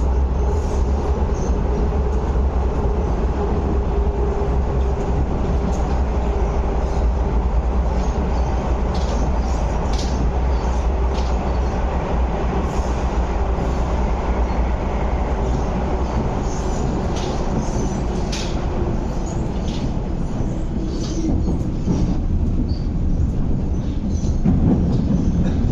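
Inside a moving MTR East Rail Line MLR (Metro-Cammell) electric train: a steady rumble of the wheels on the track, with scattered clicks and clacks from the running gear. A steady hum fades out about halfway through.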